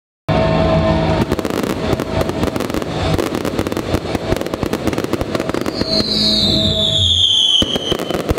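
Fireworks display: dense crackling and bangs of bursting shells, starting abruptly, with music playing underneath. About six seconds in, a high whistle falls steadily in pitch for about two seconds, like a whistling firework.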